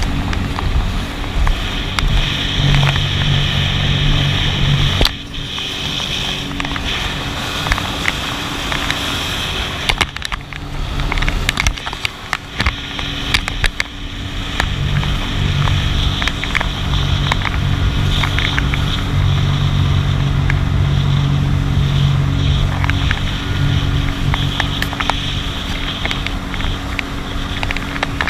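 Jet ski engine running steadily at speed. It drops suddenly about five seconds in, runs quieter and uneven for a few seconds after about ten seconds in, then comes back up strong and steady.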